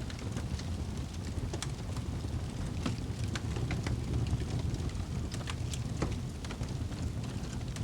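Wood fire burning in a fireplace: a steady low rumble of flames with sharp, irregular crackles and pops.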